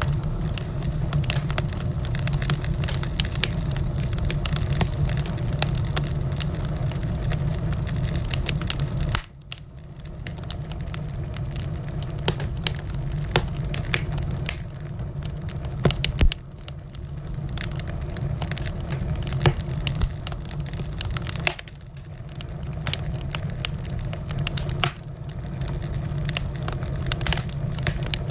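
Wood fire crackling and popping in a fireplace, with many sharp snaps over a steady low rumble of the flames. The sound drops away suddenly a few times, then builds back, with a few louder pops along the way.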